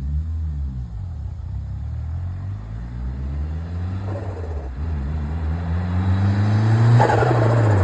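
Mitsubishi Lancer Evolution VI GSR's turbocharged 2.0-litre four-cylinder engine being revved, its pitch rising and falling several times and climbing to the loudest rev near the end. A rough, noisy burst comes with that last rev: turbo flutter from the stock turbo with its blow-off valve blocked.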